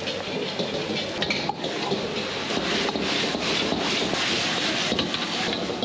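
Chicken stir-frying in a wok over a gas flame: a steady sizzle, with a metal ladle scraping and knocking against the wok as the pieces are tossed.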